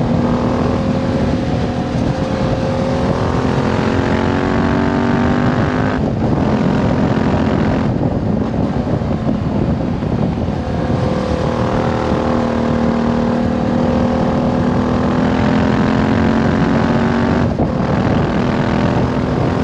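Yamaha Tenere 700's 689 cc parallel-twin engine running through a Termignoni slip-on exhaust. Its note holds steady and twice creeps slowly upward in pitch, with a few short breaks in the sound along the way.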